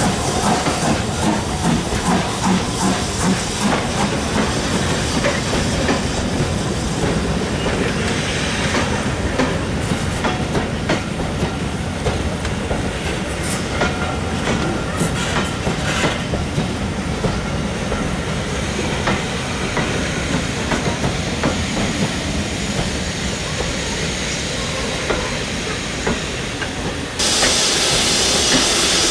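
Passenger coaches of a steam-hauled train rolling past, a steady rumble of wheels on rail with scattered clicks as they cross rail joints. About two seconds before the end it changes abruptly to a louder, steady hiss of steam from a steam locomotive.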